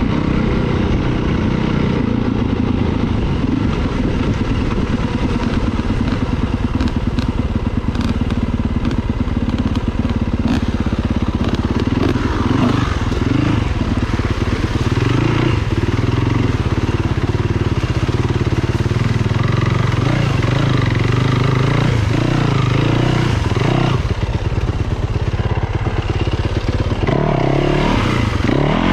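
Dirt bike engine running while being ridden along a trail, its note rising and falling with the throttle.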